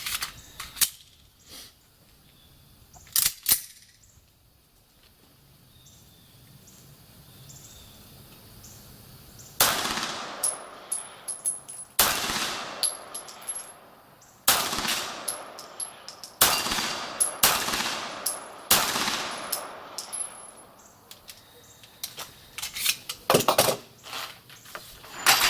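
Beretta 92G Elite Compact 9 mm pistol fired in slow single shots, about one every two seconds, starting about ten seconds in after a few clicks of handling. A thin high metallic ring follows several shots, from steel plate targets being hit.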